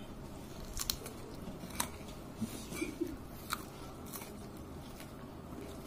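Close-up eating sounds: chewing and crunching, with a few sharp clicks and short smacks scattered through.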